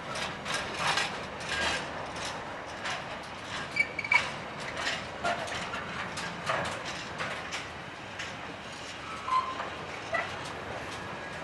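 Container freight wagons rolling past, their wheels clattering irregularly over the track in a string of sharp clicks and knocks, with a brief squeal about four seconds in and another about nine seconds in.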